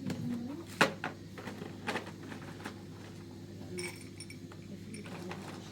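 Scattered light clinks and knocks of handled kitchenware: a sharp knock just under a second in, a few more over the next two seconds, and one ringing clink about four seconds in, over a steady low hum.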